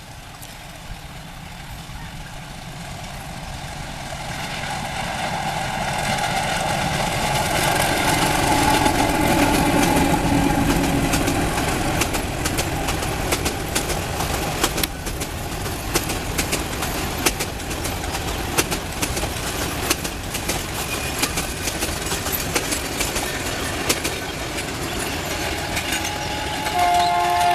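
ALCO diesel-electric locomotive hauling a train past, its running sound building over the first eight seconds or so and then holding steady. Through the second half come many sharp clicks of wheels over rail joints, and a horn begins to sound right at the end.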